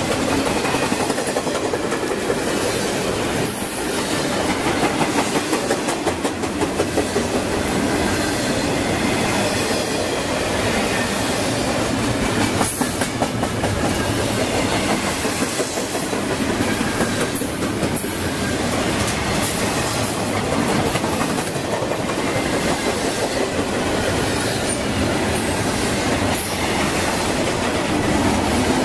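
Double-stack intermodal freight train passing on the near track: a steady loud rumble of wheels on rail with a rhythmic clickety-clack as the container cars roll by.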